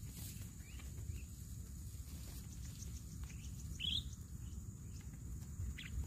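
A few short, high bird chirps, the loudest about four seconds in, over a steady low background rumble and a thin, steady high-pitched hum.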